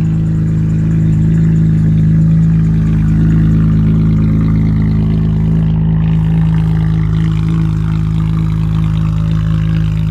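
Car engine idling steadily, its low hum holding one even pitch.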